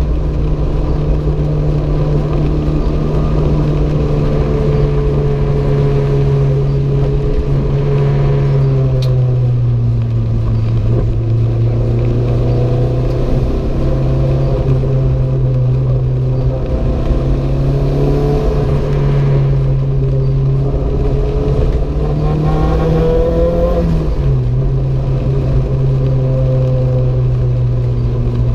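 Renault 5 GT Turbo's turbocharged four-cylinder engine running under load, its note rising and falling with the revs and dropping sharply once near the end.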